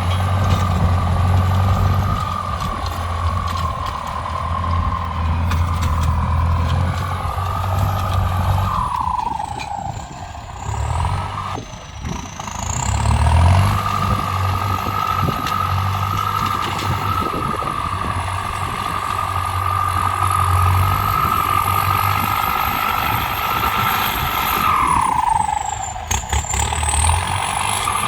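Tractor engine running steadily, with a high whine over the low engine sound. The whine dips in pitch about nine seconds in and again near the end, then climbs back, as the engine speed falls and picks up.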